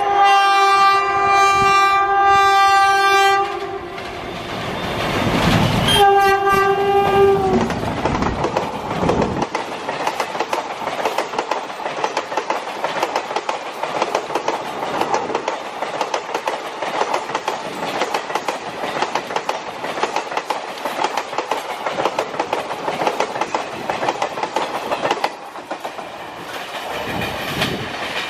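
Indian Railways WCAM2P electric locomotive horn sounding a long blast, then a shorter second blast a few seconds later whose pitch sags as it ends. The coaches of the express then rush past at speed with a steady clatter of wheels over the rail joints, which drops away near the end.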